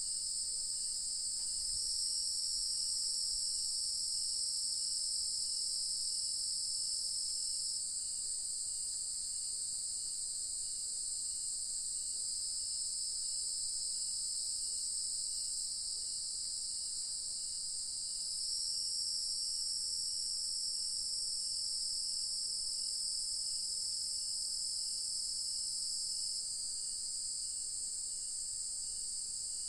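Evening insect chorus of crickets and cicadas: a dense, steady high-pitched trilling that swells louder twice, about two seconds in and again around eighteen seconds, each time for several seconds. A faint, regular chirp repeats beneath it.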